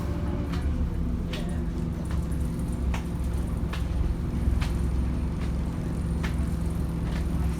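Scania N230UD double-deck bus heard from inside, its diesel engine running with a steady low drone. Sharp rattles and clicks from the body come irregularly, roughly once a second.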